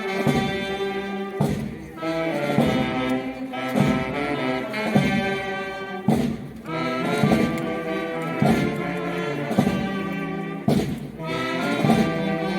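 Music led by brass instruments playing held chords, with drum strokes every second or few.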